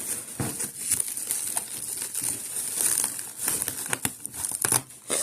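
Plastic packaging crinkling and rustling as it is handled and pulled apart, with many small crackles and clicks.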